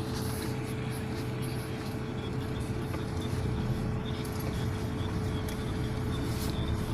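A car driving: steady engine and road noise with a low hum.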